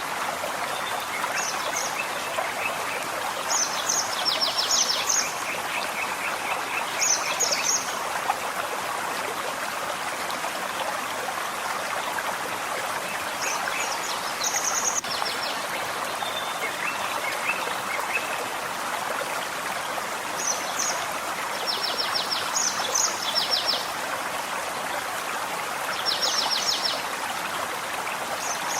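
Small forest stream running steadily, with songbirds singing over it in short clusters of high chirps and rapid trills that recur every few seconds.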